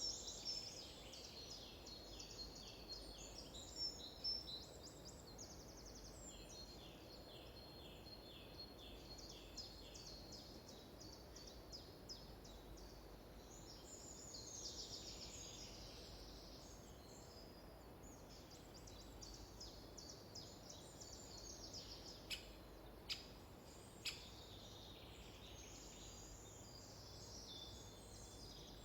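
Songbirds singing, with repeated trills and chirping phrases over a faint steady background hiss. Three short sharp clicks come about three quarters of the way through.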